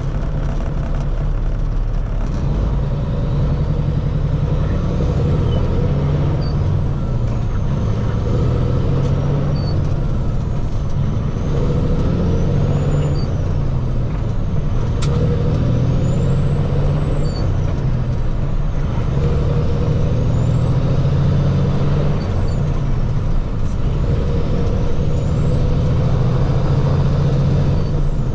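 Diesel engine of a heavy water truck running steadily under way. Every few seconds a high whistle rises and falls while the engine note shifts.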